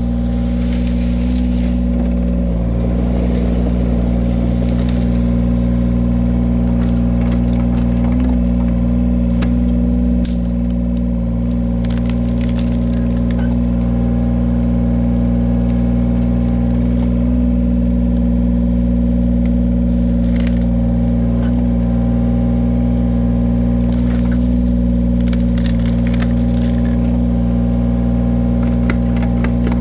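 Engine of a firewood-splitting machine running steadily, with occasional sharp cracks and knocks of logs being split.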